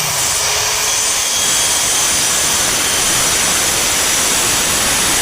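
Power saw cutting through wood along a straight line, a loud steady noise with a high whine.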